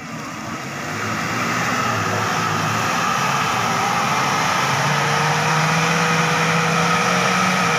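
Toyota Kijang's engine revving hard under load as the vehicle ploughs through deep mud. It builds over the first second or so, then holds a steady high pitch for the last few seconds.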